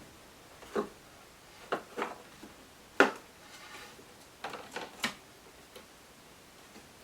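Light clicks and knocks of small toys being handled and knocked about by a squirrel monkey, about eight in all, the sharpest about three seconds in.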